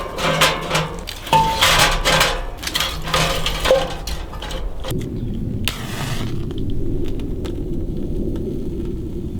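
Sharp clattering knocks for about five seconds, then a steady low rumble of a car on the move.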